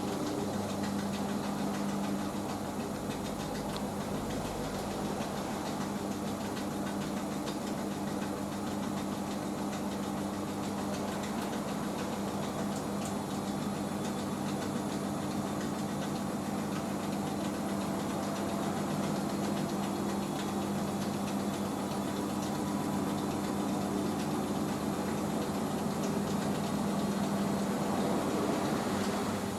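Hoover H-Wash 500 washing machine spinning steadily in its rinse spin, a constant hum with a low drone from the motor and drum.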